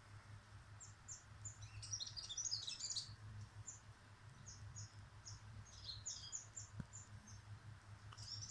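Small birds chirping: short high chirps scattered throughout, with busier flurries of overlapping chirps about two seconds in and again around six seconds.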